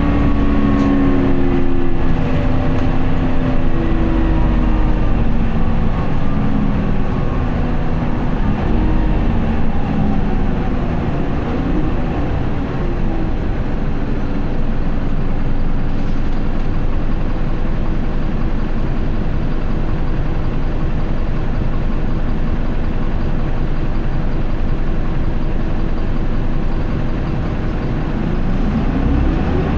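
Onboard running sound of an Isuzu Erga city bus (QDG-LV290N1) and its four-cylinder diesel. The engine note falls over the first dozen seconds as the bus slows, then gives way to steady engine and road noise. Near the end the engine starts revving up again as the bus pulls away in first gear.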